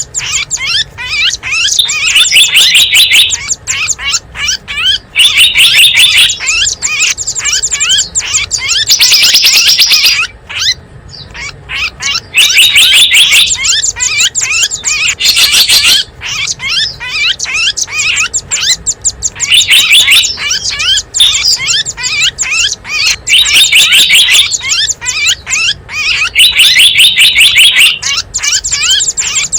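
Small birds chirping and trilling in dense, rapid high-pitched runs that come in repeating bursts of a second or two, with a brief lull about ten seconds in: a looped lure recording for attracting small wild birds.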